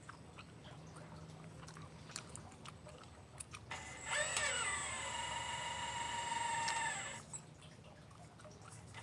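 RC model Liebherr 954 excavator whining as its motor runs up: the pitch drops sharply just after it starts, holds steady for about three seconds, then cuts off. A low hum runs underneath.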